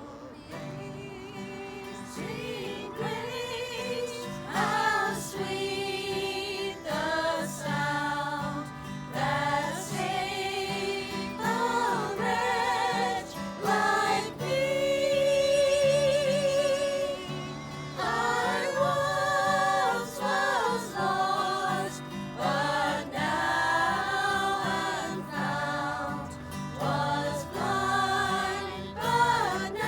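Voices singing a gospel hymn together in phrases, with one long held note with vibrato about halfway through.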